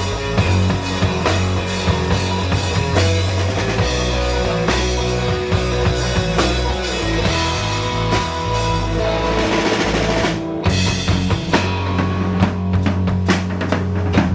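Instrumental surf rock played live by a band, with a busy drum kit over bass and a pitched lead line. The music builds to a brief break about ten seconds in, then the full band comes back in.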